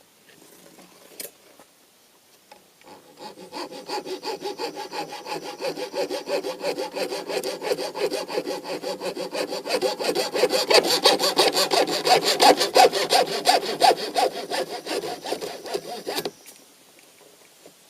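Hacksaw cutting through a graphite-and-fiberglass fishing rod blank in quick back-and-forth strokes. It starts about three seconds in, grows louder toward the middle, and stops a couple of seconds before the end.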